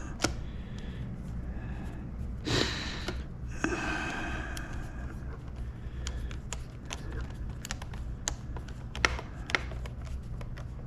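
Small clicks and taps of plastic joystick housing parts and screws being handled, over a steady low hum. There are two breathy exhalations a few seconds in.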